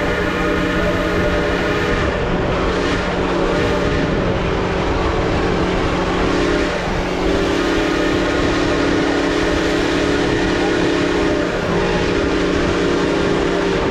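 Steam locomotive whistle blowing a series of long chime blasts, four in all, the last one shorter, over the steady running rumble of the train.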